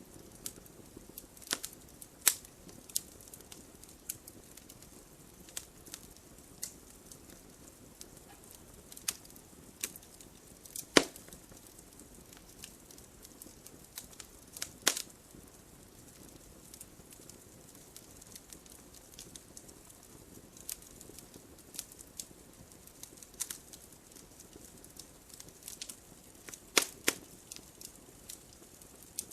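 Wood fire burning, with irregular sharp crackles and pops over a soft steady hiss; the loudest pops come about 11 and 15 seconds in and near the end.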